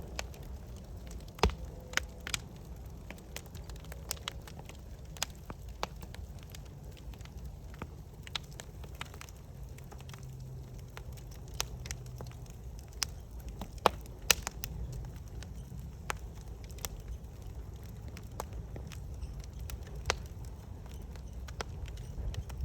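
Campfire crackling, with sharp pops at irregular intervals over a steady low rumble.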